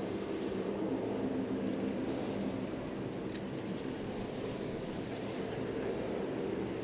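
Aircraft engines running with a steady drone that holds an even pitch throughout.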